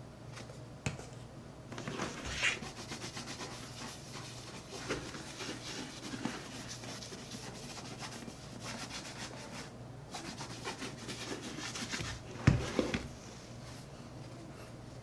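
Leather of a Red Wing 8080 being rubbed and scrubbed with shoe cleaner in uneven strokes, with a sharp knock about twelve seconds in.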